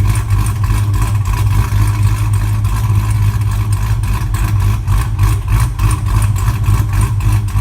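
A car engine running steadily with a fast, even pulse, loud and starting abruptly.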